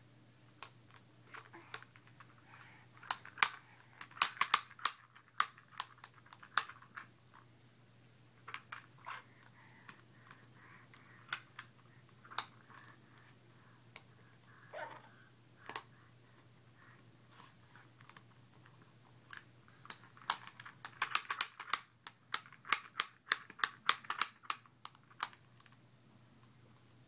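Plastic lid of a Barrel of Monkeys barrel clicking and clattering as a toddler plays with it. The clicks come in two rapid bursts, a few seconds in and again about twenty seconds in, with scattered single clicks between.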